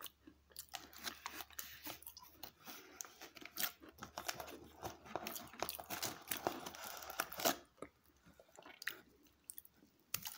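Crunchy chocolate chip cookies being chewed close to the microphone: a dense run of crackly crunches that thins out in the last few seconds, with some crinkling of the plastic cookie tray as cookies are handled.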